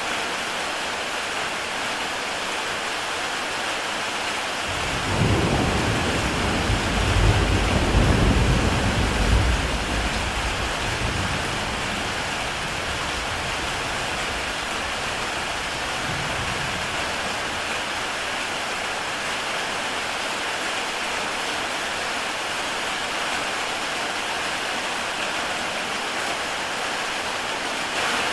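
Heavy rain falling steadily on a tile roof. About five seconds in, a deep rumble of thunder swells, peaks and fades away over several seconds.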